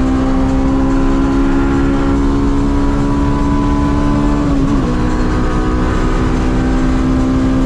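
Honda S2000's 2.0-litre four-cylinder engine running flat out at high rpm through a large-bore 70 mm exhaust, heard from inside the cabin as a steady high-pitched drone. Its pitch dips briefly a little over halfway through, then holds steady again.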